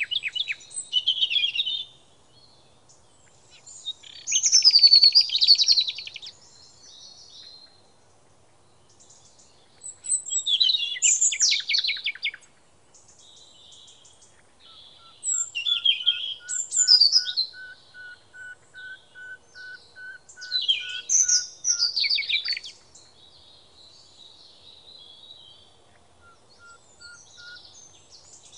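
A songbird singing loud, rapid warbling phrases with trills, one phrase about every five seconds. Through the middle, a second, lower series of short even notes repeats about two to three times a second.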